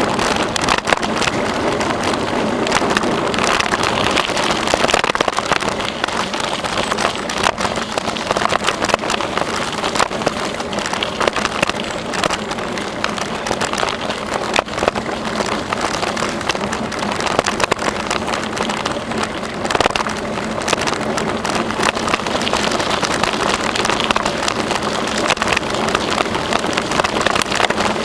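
Bicycle being ridden along a trail: steady tyre noise on the track surface with constant small rattles and clicks from the bike.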